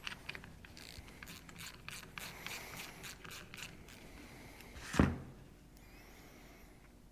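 Hand tools working on metal parts of a diesel injection pump: a run of small clicks and scrapes for the first few seconds, then one sharp knock about five seconds in.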